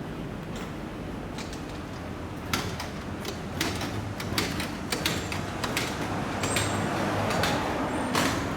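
A steady low rumble with a hum, and from about two and a half seconds in a run of sharp clicks and clatters that grows a little louder.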